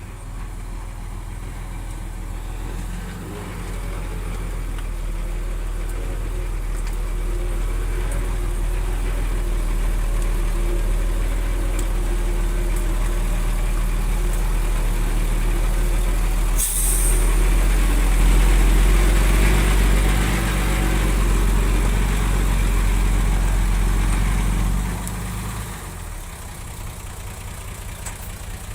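Heavy diesel earthmoving machine's engine working under load, growing louder toward the middle and easing off near the end. A short, sharp hiss cuts in once about two-thirds of the way through.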